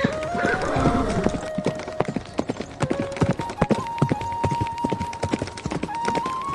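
Horse's hooves clip-clopping, a quick irregular run of sharp clops several times a second.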